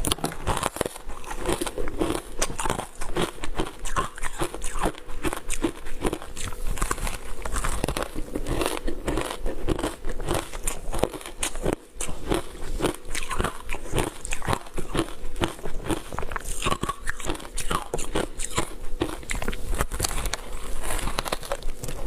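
Frozen matcha ice being bitten and chewed, a steady run of crisp crunches and crackles, several a second.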